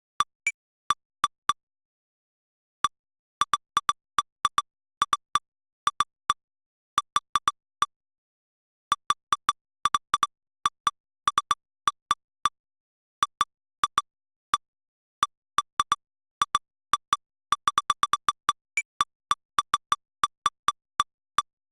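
Short electronic ticks, all at the same pitch, coming at an irregular pace: bunched into rapid clusters in places, with gaps of about a second in others, and dead silence between them. These are the synthetic strike ticks of a lightning detector's history replay.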